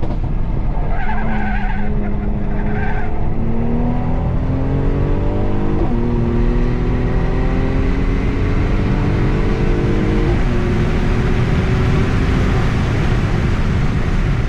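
Mercedes sedan's engine heard from inside the cabin, pulling at full throttle as speed climbs, with quick upshifts about six and ten seconds in, each dropping the pitch before it climbs again. Tyres squeal briefly in the first few seconds while cornering on a cold, damp track.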